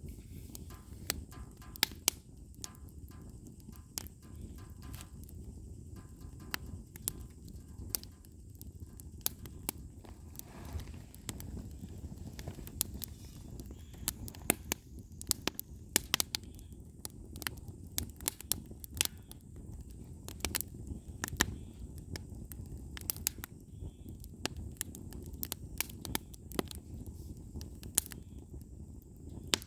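Firewood burning: irregular sharp pops and crackles, several a second at times, over a low steady rumble.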